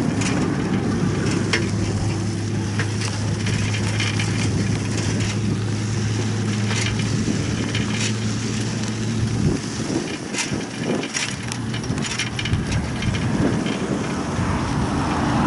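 Road noise from a moving vehicle: a steady low engine drone over rumbling noise, broken by frequent crackles and clicks. The drone drops away about nine and a half seconds in, and the noise turns more uneven.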